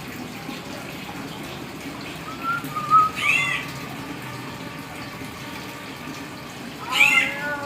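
Hill myna giving two short whistled calls, one about three seconds in and another near the end, over a steady background hiss.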